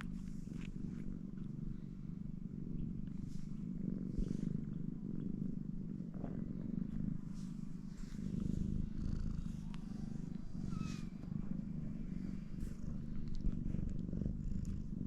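A cat purring steadily, with a faint short high chirp about eleven seconds in.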